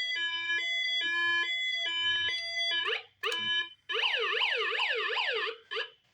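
Toy 1989 Hess fire truck's battery-powered electronic siren: first a repeating stepped pattern of tones, then a couple of short rising sweeps, then a fast up-and-down warble that stops near the end. The owner suspects the batteries might be going dead.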